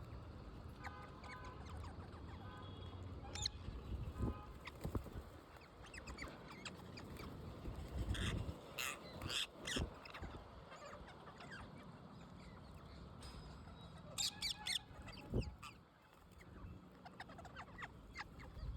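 Wild parrots calling in short squawks, with clusters of sharp calls about nine and fourteen seconds in.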